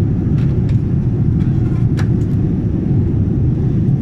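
Airliner cabin noise: a steady, loud low rumble of the jet engines and airflow, with a faint click about halfway through.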